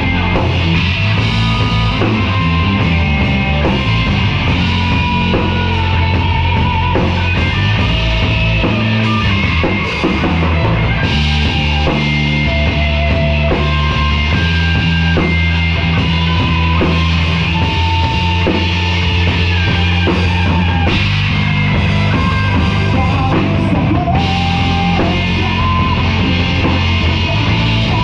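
Live rock band playing loudly: distorted guitars, bass and drum kit, with sustained lead guitar lines and no singing.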